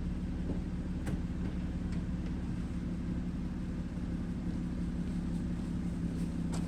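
1996 Lexus SC300's 3.0-litre straight-six (2JZ-GE) idling steadily while warming up after a cold start, with a few faint ticks.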